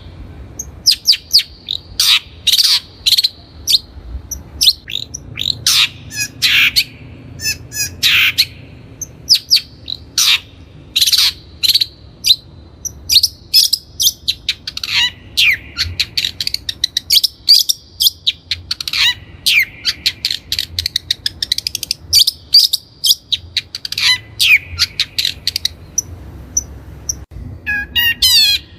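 Long-tailed shrike (Lanius schach) singing vigorously: an irregular, rapid string of sharp, harsh notes, many of them sweeping downward. The song ends with a quick burst of fast repeated notes.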